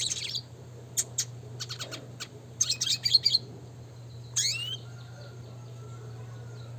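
Red siskin singing in bursts of sharp chirps and quick twittering runs, ending with a rising note about four seconds in, after which the song stops. A steady low hum runs underneath.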